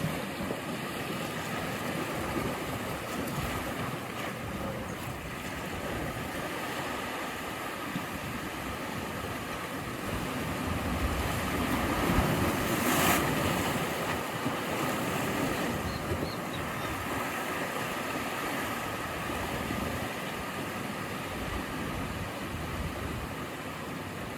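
Ocean waves breaking, a steady rush of surf that swells to a louder peak about halfway through.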